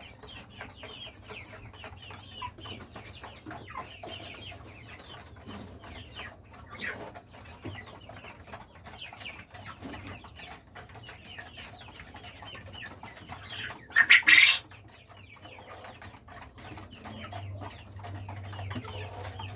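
A flock of caged quail chattering and calling with many short chirps, over a steady low hum. About two-thirds of the way through comes one much louder, short, sharp burst.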